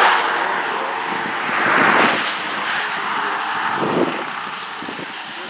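Traffic passing on a highway: a steady rush of tyre and engine noise that swells at the start and again about two seconds in as vehicles go by, then eases.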